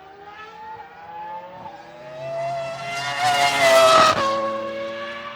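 High-revving racing car engine approaching and passing at speed. It grows louder, is loudest about four seconds in, then falls in pitch as it goes away.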